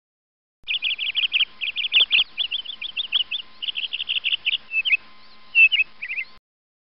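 A bird chirping in quick runs of short, high chirps that start about half a second in and cut off suddenly near the end.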